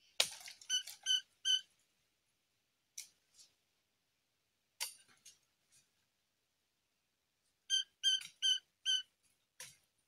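Fledgling pelanduk semak babbler calling: two runs of four short, even, high notes, one near the start and one about three-quarters of the way through, with a few sharp clicks in between.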